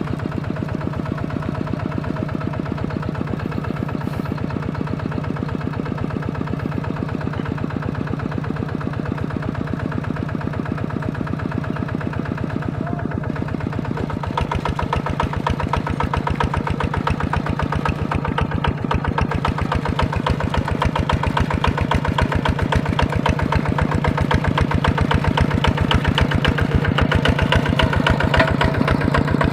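Mini plowing tractor engine running steadily with a rapid, even firing beat, becoming louder about halfway through.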